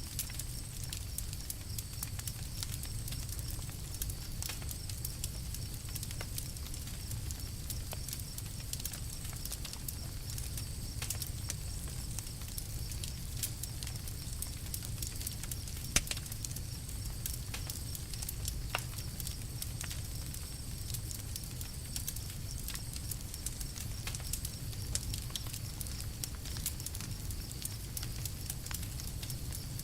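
Campfire burning with frequent small crackles and snaps over a steady low rumble, and one sharper, louder pop about halfway through.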